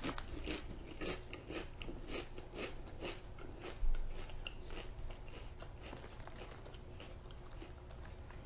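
Person chewing a mouthful of Lay's Korean barbecue potato chips: crisp crunches about twice a second that fade to softer chewing over the last few seconds. A low thump comes about four seconds in.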